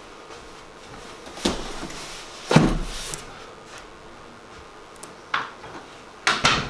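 A handful of separate knocks and thumps. The loudest, a heavy thud, comes about two and a half seconds in, and a quick double knock comes near the end.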